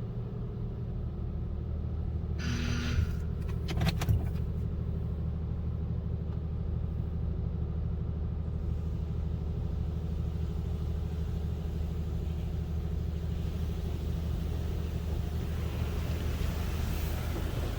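Steady low hum of a car idling, heard from inside the cabin in an in-bay automatic car wash bay. A short hiss comes about two and a half seconds in, and a couple of sharp knocks near four seconds.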